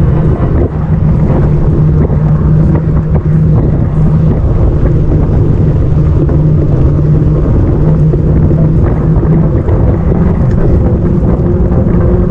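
Wind buffeting the microphone of a moving bike-mounted camera, a loud low rumble with a steady low hum underneath.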